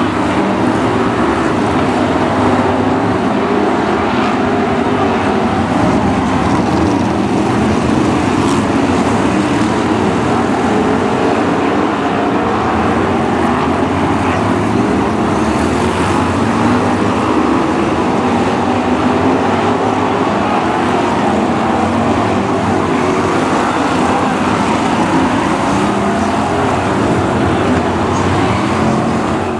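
BriscA F1 stock cars racing on the oval, their V8 engines running loud and steady as a pack.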